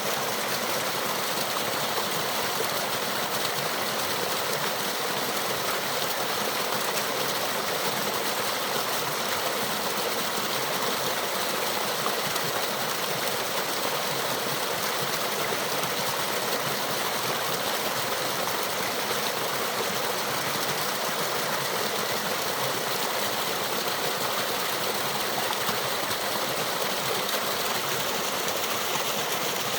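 Water of a small waterfall and stream rushing steadily, a constant even hiss with no breaks.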